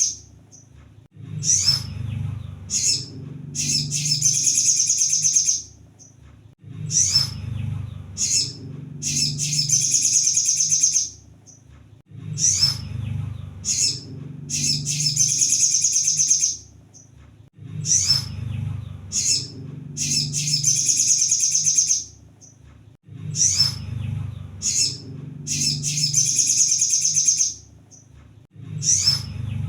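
Sunbird (kolibri sogon) singing: a high, rapid trill of two to three seconds with short chirps between, repeating about every five and a half seconds over a low hum.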